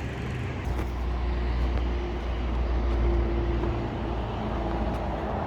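Low rumble of a passing motor vehicle, swelling about a second in and easing off near the end, with a faint steady engine note over it.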